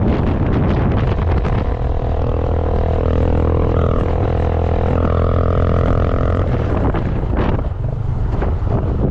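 Wind buffeting the microphone in a moving vehicle, with a steady droning engine hum that comes in about a second in, shifts slightly in pitch midway and fades out after about six seconds.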